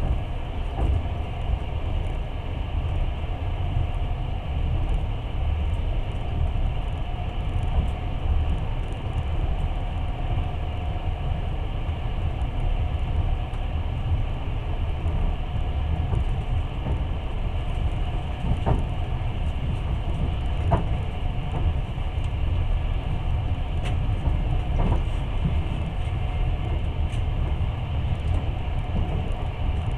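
Passenger train running along the track, heard from inside the carriage: a steady low rumble with a few sharp clicks from the wheels and running gear.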